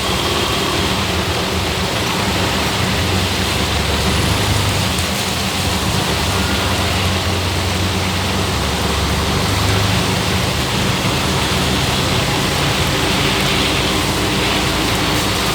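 Heavy rain pouring steadily, with the low, steady hum of a motor vehicle engine running underneath.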